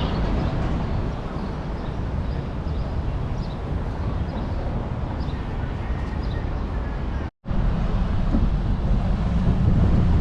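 Steady low rumbling outdoor noise with no clear tone, broken by a short dropout about seven seconds in, after which it comes back louder.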